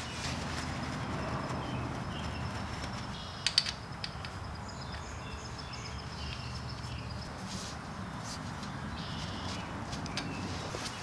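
Faint bird chirps over a steady low background rumble, with a brief cluster of sharp clicks about three and a half seconds in.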